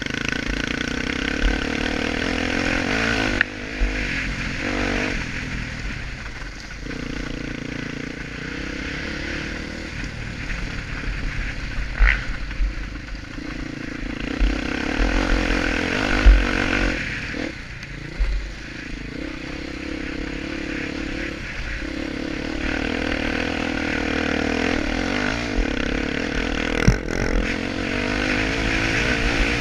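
Honda XR250 Tornado single-cylinder four-stroke dirt bike riding a motocross track, its engine revving up and easing off again and again through the ride, with a few sharp knocks along the way.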